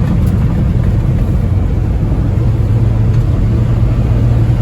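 Honda Acty mini truck's small three-cylinder engine running steadily under load as the truck climbs a steep hill, with a constant low drone.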